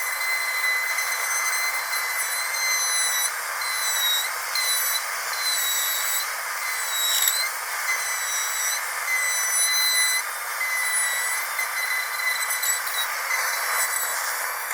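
Dental drill whining steadily at a high pitch with a stack of overtones, over a hiss. The pitch dips briefly twice, about four and seven seconds in.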